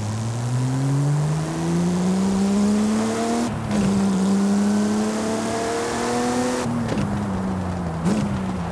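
Porsche 911 Speedster's flat-six engine pulling hard through the gears: its note climbs steadily, drops with an upshift about three and a half seconds in, and climbs again. Near the end the driver lifts off, the note falls, and there is a short throttle blip.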